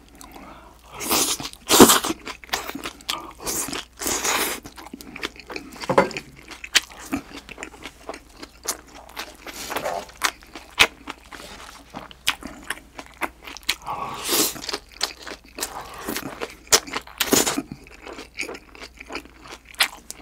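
Close-miked eating of spicy shredded raw green-onion salad with thin-sliced pork belly: wet chewing and crunching, with many small sharp clicks and several louder crunchy mouthfuls.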